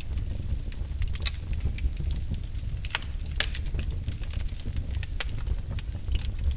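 Logs burning in a fireplace, crackling with frequent irregular sharp pops over a steady low rumble.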